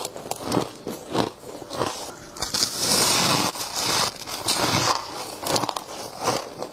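Frost being bitten and chewed close to the microphone: a run of crisp crunches, with a longer, denser crunch about three seconds in.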